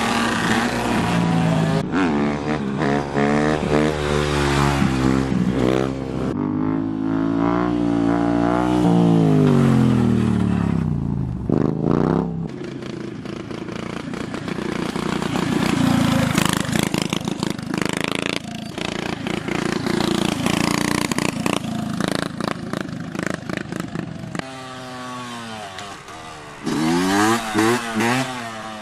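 Small motorbike engines revving hard, the pitch climbing and dropping again and again with the throttle and gear changes. A rougher, less tonal stretch of engine noise fills the middle before the revving picks up again near the end.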